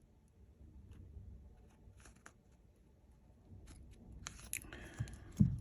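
Faint clicks and taps of tweezers and small phone parts being handled while antenna cables are fitted during phone reassembly, getting busier in the second half with a brief rustle and one louder knock near the end.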